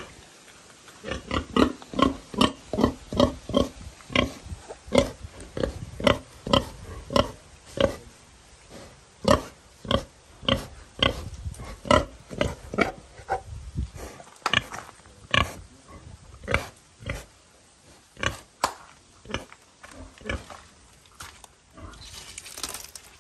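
Pig grunting in a long run of short grunts, about two a second at first, then more spaced out and fading off near the end.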